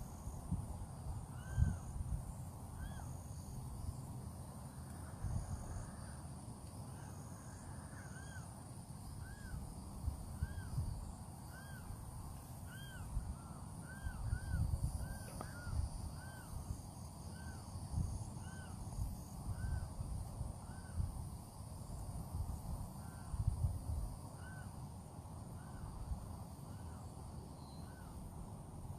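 A crow cawing over and over, short calls coming about one or two a second, with gusts of wind rumbling on the microphone and a steady high insect buzz behind.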